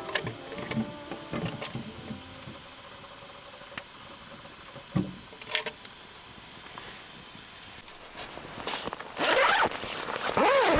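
A zipper pulled in long noisy strokes over the last two seconds or so, after a few light handling clicks. The tail of background music fades out at the start.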